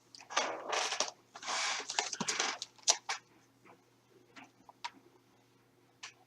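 Rustling and scraping from handling a packaged toy truck, in two short spells, then a few sharp clicks and faint ticks as it is set down.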